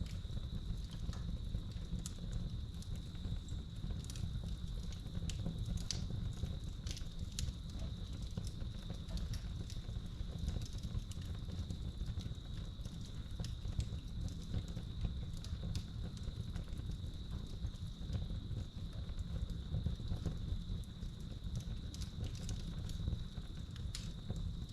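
Real wood fire crackling in a fireplace, with frequent irregular sharp pops over a low steady rumble, while crickets chirp in a steady high trill behind it.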